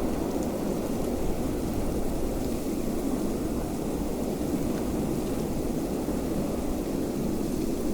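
Steady wind, an even low rushing noise without distinct gusts.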